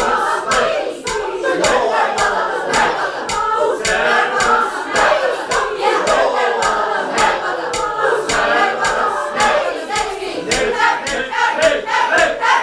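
Mixed choir singing a rhythmic a cappella chant over a steady beat of sharp clicks, about three a second, standing in for the ticking noise of the song.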